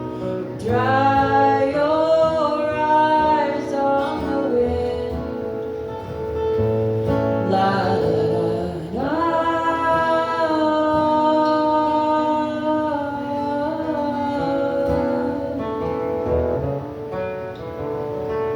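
A song sung to acoustic guitar accompaniment. The voice slides up into long held notes twice, about half a second in and again about nine seconds in, over steady guitar.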